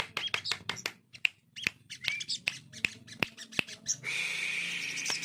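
Captive crested jay (sogon) calling: short chirps among a run of sharp clicks, about four or five a second, then a sustained harsh rasp starting about four seconds in.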